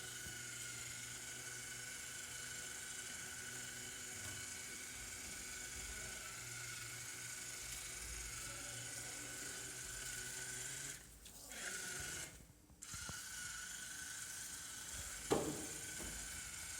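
Fire Bird V robot's small geared drive motors whining steadily as it drives. The whine drops out briefly twice, about eleven and twelve and a half seconds in. A sharp click comes near the end.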